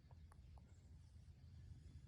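Near silence: a faint low hum with a few faint ticks.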